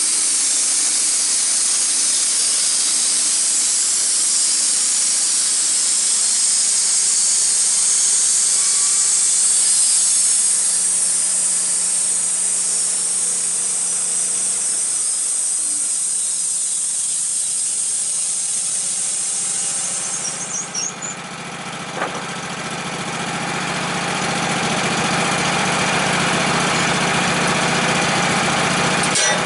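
A loud, steady hiss for about twenty seconds. After a brief dip it gives way to an engine running steadily.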